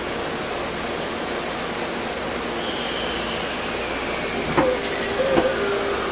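Running noise inside a Tokyu 8500 series train. About two and a half seconds in, the whine of its Hitachi GTO inverter comes in and glides steadily down in pitch as the train slows, and a steady low hum takes over near the end. Two sharp clacks come about a second apart.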